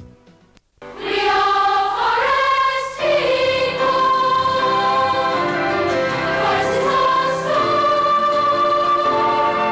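Choral music: a choir singing long held notes in harmony, coming in about a second in after a brief silence.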